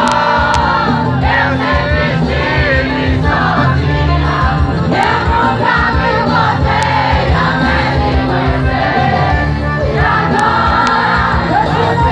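Live band music with a singer, many voices joining in from the crowd, over a steady bass and beat.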